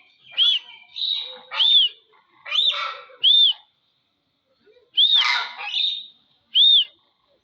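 A crane calling: a run of short, loud calls, each a rising-and-falling whistled note mixed with a harsh rasp, with a pause of about a second and a half in the middle before the calls resume.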